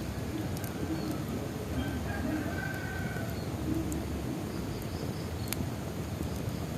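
Bonfire crackling over a steady low rumble, with a few sharp pops. A bird calls in low, repeated notes through the first few seconds, and a thinner, higher call comes in about two to three seconds in.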